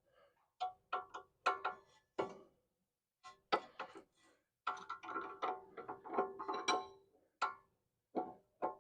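Irregular metallic clicks and clinks with a short ringing tone, from a hand wrench working a sway bar end link bolt as it is tightened down; a quicker run of clicks comes in the middle.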